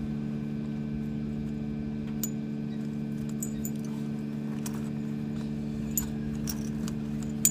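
Tractor engine idling steadily, with tire-chain links clinking now and then as the chains are handled.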